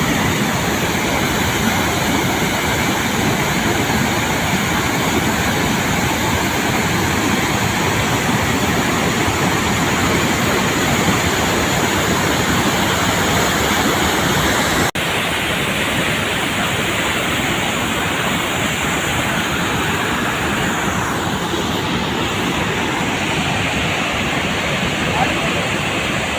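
Waterfall pouring in a steady, loud rush of water. About halfway through it cuts out for an instant and resumes with a slightly different tone.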